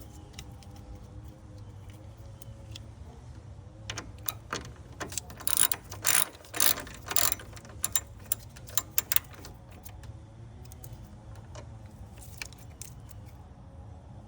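Ratchet socket wrench clicking through a run of strokes while loosening a bolt on the radiator hose assembly, starting about four seconds in and loudest midway, over a low steady hum.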